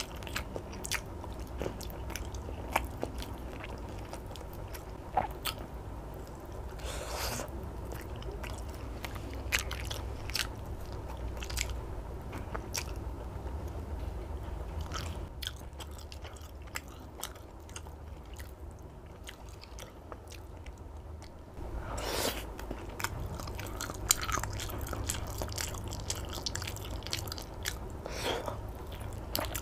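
Biting and chewing: chicken satay and pieces of nasi himpit (compressed rice cake) bitten off bamboo skewers and chewed, with frequent small mouth clicks and a few louder bites.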